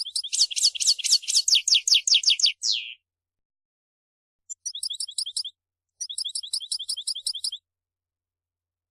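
European goldfinch singing: fast trills of repeated high notes, about ten a second. A dense run of sharply falling notes lasts about three seconds. After a pause come two shorter trills.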